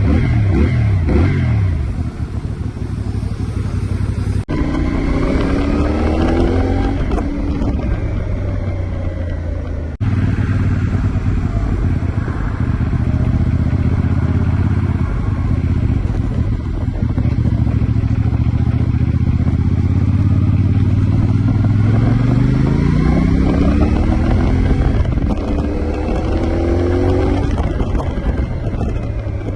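CFMOTO 450NK's parallel-twin engine with a 270° crankshaft, underway on a ride. The revs drop at the start, climb twice through the rpm range, and hold steady at cruise in between.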